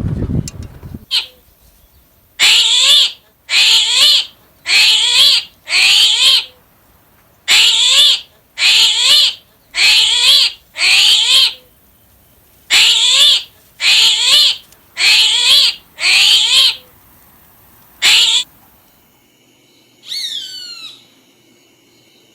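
An animal calling loudly and repeatedly, about once a second in runs of four or five calls with short pauses between runs. A single short falling whistle-like call follows near the end.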